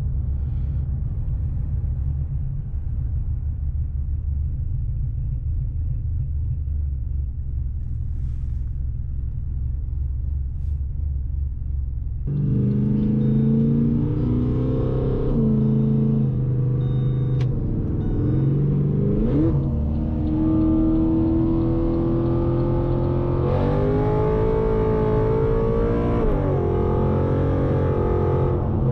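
Cammed Pontiac G8's engine heard from inside the cabin, a steady low rumble while cruising. About twelve seconds in it suddenly gets louder, with several held tones that shift in pitch a few times and one rising glide.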